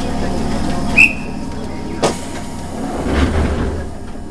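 Hakone Tozan Railway electric train standing at the platform with a steady low hum. About a second in comes a short high-pitched signal tone, about two seconds in a sharp thump, and near the end a brief swell of rumble and hiss.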